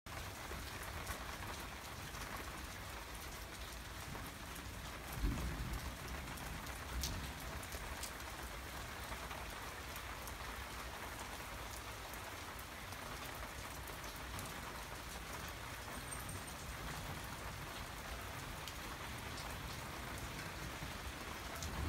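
Steady rain falling on shingle roofs and a yard, an even hiss with a few sharp ticks. There is a brief low thump about five seconds in.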